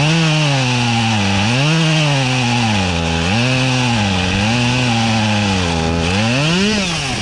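Two-stroke gas chainsaw cutting through a log under full throttle, its engine pitch sagging under load and picking up again four times, then revving up and dropping as the throttle is let off near the end. The cutter has to lift the saw in the cut and puts the slow cutting down to punky, soft rotten wood.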